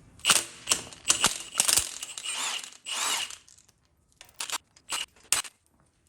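An aerosol can of penetrating oil sprayed in short hissing bursts onto engine bolts to soak them before loosening, with a few sharp metal clicks among them. The last bursts come in quicker, shorter puffs.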